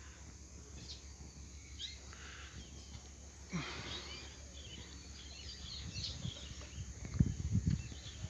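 Birds chirping, with short high calls scattered throughout over a steady low outdoor background. A few low thumps come about seven seconds in.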